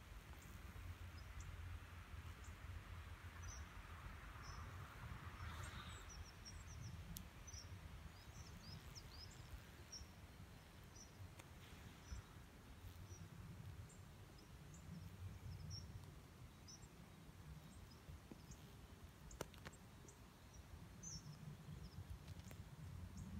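Faint outdoor ambience: a low rumble with small birds chirping repeatedly in the background, and a single faint click near the end.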